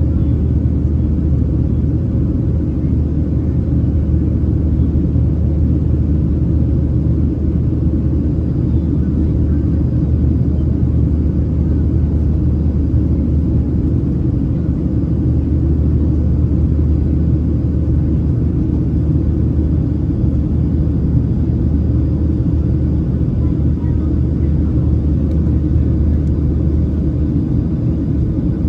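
Steady cabin drone of a Boeing 737-700 climbing out after takeoff, heard from inside the passenger cabin: the CFM56-7B turbofan engines and rushing airflow make an even, low rumble with a faint steady hum above it.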